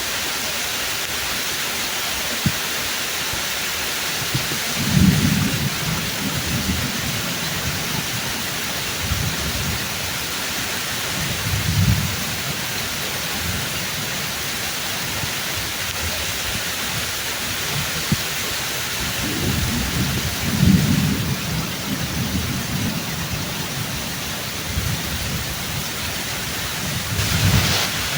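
Steady pouring rain with thunder rumbling low four times, loudest about five seconds in and again around twenty seconds in.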